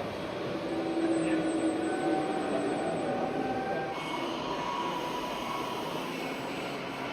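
Small electric drive motors and gearboxes of 1/14 and 1/16 scale RC trucks and tractors whining steadily, the pitch stepping higher about four seconds in as the models speed up or change load.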